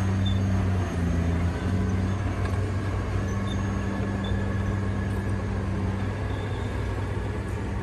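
Radio-controlled scale construction machine running: a steady low engine-like drone that shifts pitch a few times in the first two seconds, then holds steady.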